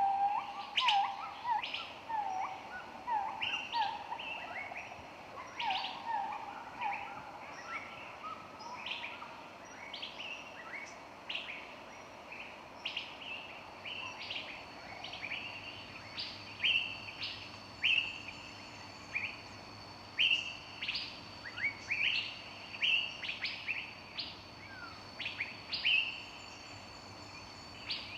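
Several wild birds chirping and singing at once, with many short overlapping notes and calls. In the first several seconds one bird repeats lower, falling notes. After that, higher quick chirps and a few held thin whistles fill the rest.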